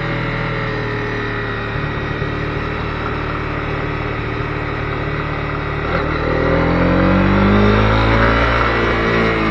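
Honda CB250R's single-cylinder engine pulling at steady revs. About six seconds in, the revs climb and then fall back again near the end.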